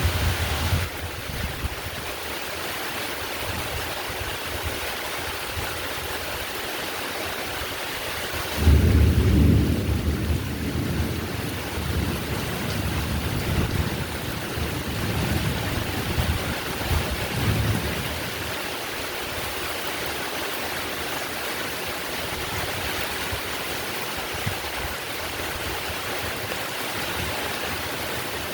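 Heavy rain falling steadily, with a long roll of thunder that breaks suddenly a third of the way in and rumbles on in waves for about ten seconds before fading.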